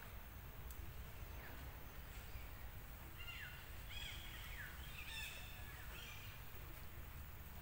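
Faint outdoor ambience with a steady low rumble, and from about three seconds in a bird calling a quick run of short, falling high-pitched chirps.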